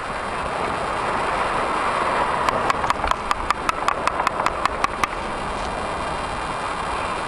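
A vehicle engine running steadily. For a few seconds in the middle, a rapid, even ticking of about four to five clicks a second sounds over it.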